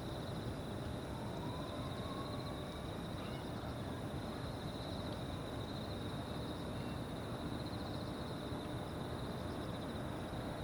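Evening insects chirring steadily in fast, high pulses over a low, continuous rumble of outdoor background noise.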